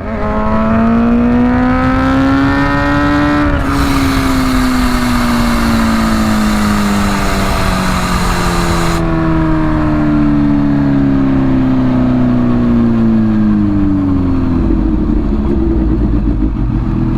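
Bimota Tesi H2 motorcycle with its supercharged inline-four engine, revving up for about three and a half seconds and then winding down slowly in pitch over about ten seconds, settling lower near the end.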